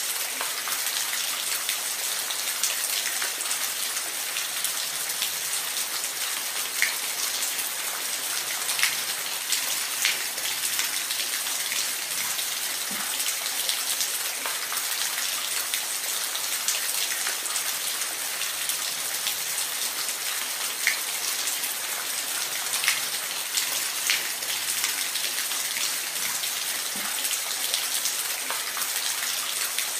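Steady rain falling, an even hiss with scattered louder individual drops ticking through it.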